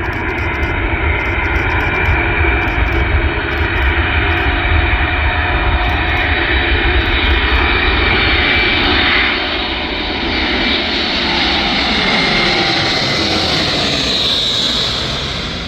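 Antonov An-124's four D-18T turbofan engines at takeoff power, a loud steady jet roar with whining tones. From about nine seconds in the tones fall in pitch as the aircraft goes past.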